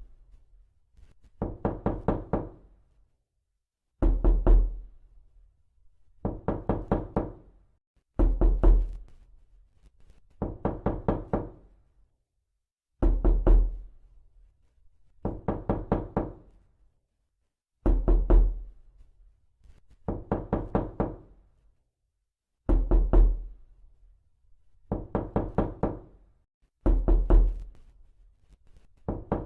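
Knuckles knocking on a door in quick runs of several raps. The runs come in pairs about every four to five seconds, the first run of each pair louder and deeper than the second.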